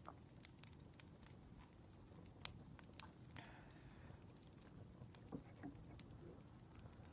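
Wood fire crackling: quiet, irregular sharp pops and snaps from burning firewood, with a brief soft rustle about three and a half seconds in.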